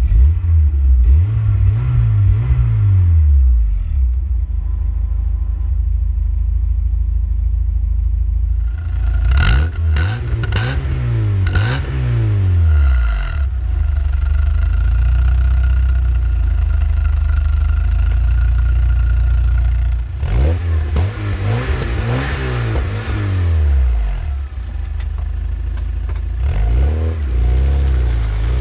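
VW Golf 2 GTI's 1.8-litre four-cylinder engine, running without a catalytic converter, idling and revved in four short blips that each rise and fall back to idle.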